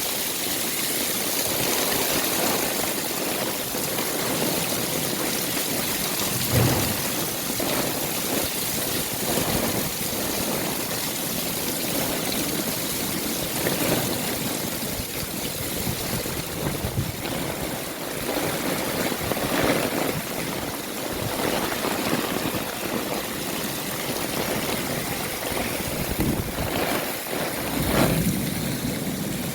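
Heavy rain falling steadily, a continuous hiss, with a few brief louder splashes or knocks.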